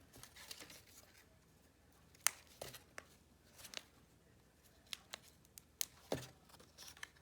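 Cardstock pieces being handled and pressed together by hand: scattered light clicks, taps and short paper rustles.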